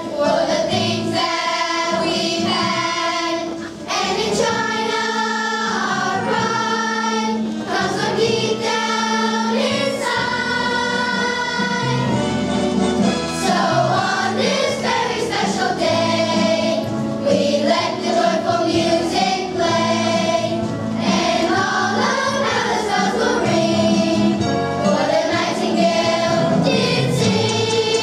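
A children's choir singing a song in unison, with instrumental accompaniment.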